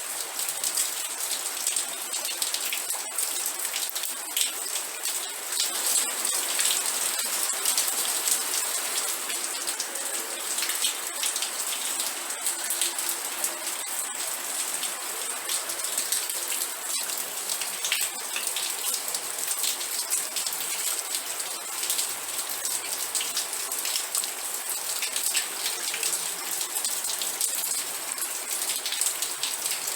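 Steady rain falling: an even hiss of rain with many separate drops ticking through it, strongest in the high range.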